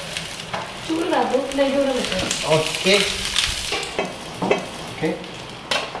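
Banana-leaf-wrapped fish parcels sizzling as they fry in coconut oil in a pan, with a light knock near the end.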